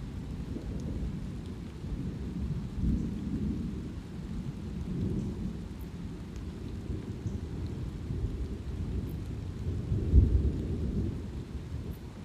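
Thunder rumbling low and continuously, swelling loudest about ten seconds in, over light rain with scattered drops.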